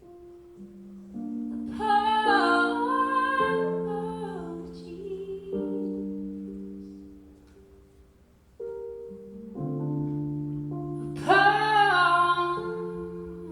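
Live performance of a slow ballad: a woman's voice sings two long phrases, one near the start and one near the end, over soft sustained instrumental chords.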